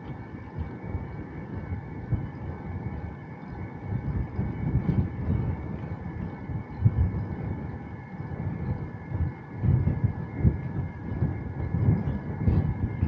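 Wind buffeting the microphone while riding a bicycle, a low gusty rumble that swells and falls irregularly, with rolling noise from the ride underneath. A faint steady high whine runs beneath it.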